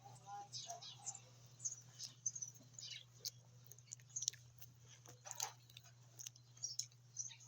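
A person chewing food close to the microphone: irregular soft mouth clicks and smacks, over a steady low hum.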